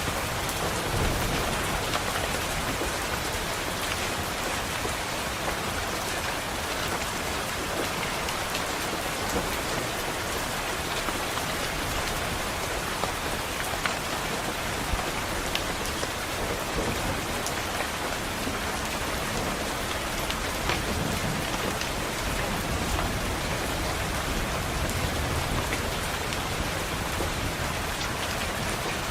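Steady rain on a window: a dense, even hiss with scattered sharp taps of drops.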